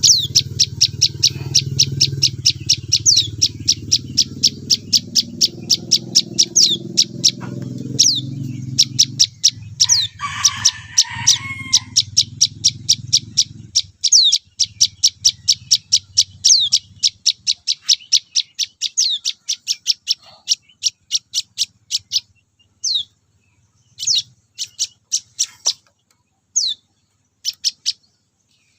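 Young prenjak (prinia) giving begging calls while being hand-fed: a fast string of high, thin chirps, several a second, broken by louder down-slurred notes. The chirping thins to scattered calls in the second half, and a low rumble runs underneath until about halfway.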